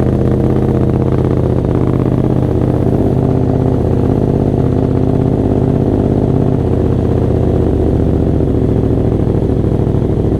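BMW F900R parallel-twin engine idling steadily on its own just after starting, not struggling and not stalling, the cold-start dying fault not showing after the dealer's work.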